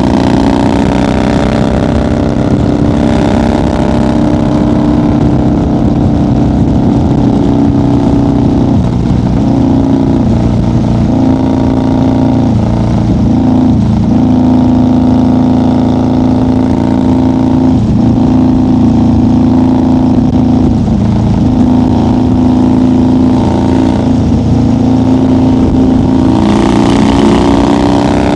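1990 Harley-Davidson FXR's Evolution V-twin running at highway cruising speed, steady and loud. Its pitch dips slightly a few times in the middle and rises a little near the end as it pulls harder, with more wind noise.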